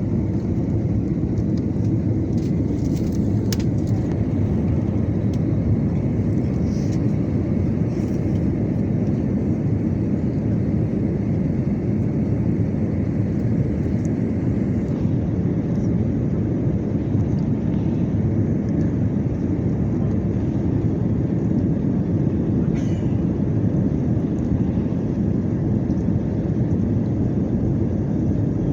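Steady low roar of an Airbus A320's cabin in flight: engine and airflow noise heard from inside the passenger cabin.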